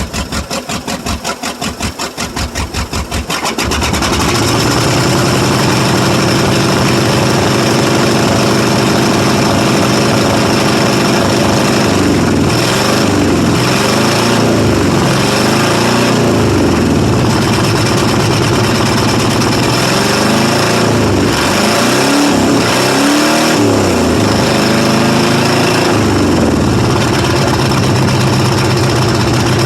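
1995 Ford F150's 5.8-liter (351) V8 running loud through a cut-off exhaust with no catalytic converters, missing on several cylinders and loading up on fuel. It starts with a lumpy, pulsing idle, then about four seconds in it picks up to a higher, steadier speed and is revved up and down several times. The owner suspects a blown head gasket or cracked head.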